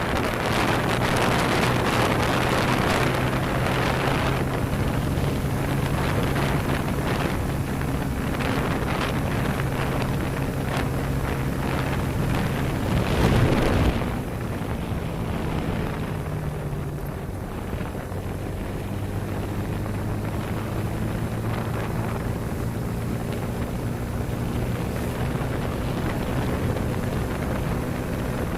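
Motorcycle engine running steadily at cruising speed under heavy wind buffeting on the microphone. There is a louder rush of wind about 13 seconds in, and the engine note drops slightly a few seconds later.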